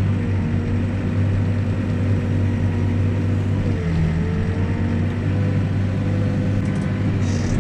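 Backhoe's diesel engine running steadily at working speed, with a steady whine that drops in pitch about four seconds in and climbs back.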